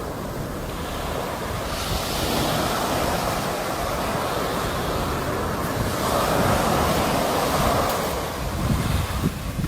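Sea waves breaking and washing up the shore, swelling in two surges and then easing off near the end.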